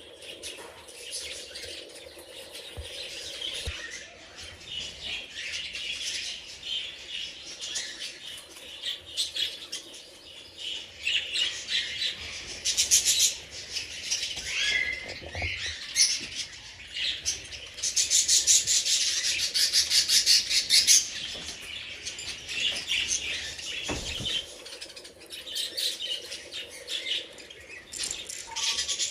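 A flock of budgerigars chattering and chirping continuously, with fluttering wings, the chatter swelling louder in stretches.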